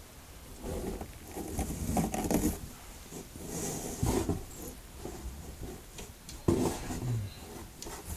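Irregular scuffling, scraping and knocks in and against a box holding an injured bird, with a few sharper knocks about two, four and six and a half seconds in.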